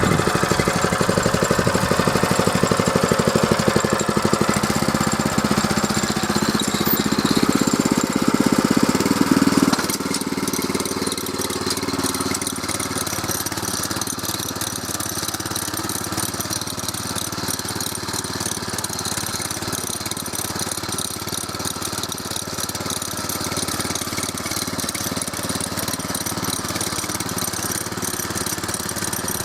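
Walk-behind tractor's single-cylinder 200 cc Champion petrol engine running steadily under load as its cultivator tines work unbroken ground. About ten seconds in the engine sound drops a little and runs on more evenly.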